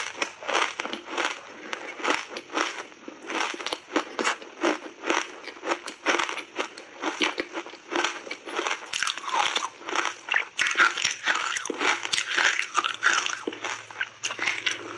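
Ice coated in matcha tea powder being bitten and chewed: sharp crunches follow one another several times a second.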